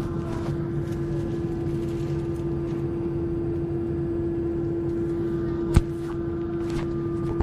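Cabin noise inside an Airbus A321 airliner: a steady roar of the engines and airflow with a strong steady hum running through it. A single sharp click about six seconds in.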